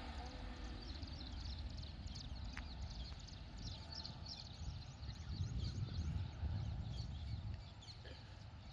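Birds chirping in quick short calls over a steady low rumble; the chirping and the rumble grow busier and louder after about five seconds in.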